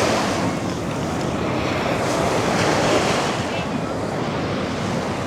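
Ocean surf washing onto the beach, with wind blowing across the microphone.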